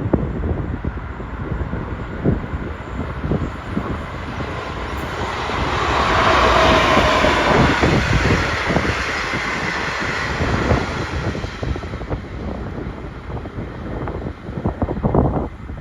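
A train passing on the rails, its noise building to its loudest around halfway and then fading away, with wind buffeting the microphone throughout.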